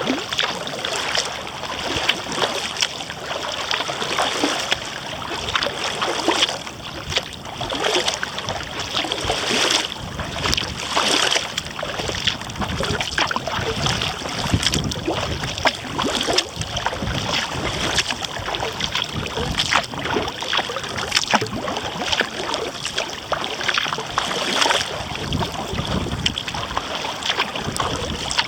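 Kayak paddle dipping and splashing, with water running and dripping around the hull, and wind gusting against the microphone.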